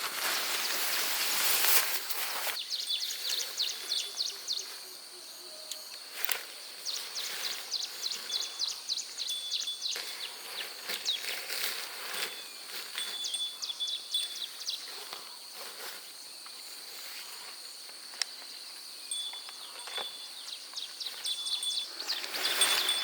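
Outdoor nature ambience of insects chirping in short, repeated high trills, with a broad rush of noise in the first two seconds and again near the end.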